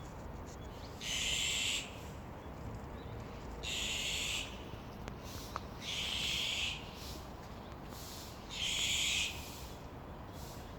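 Azure-winged magpie giving four harsh, raspy calls, each under a second long and a couple of seconds apart.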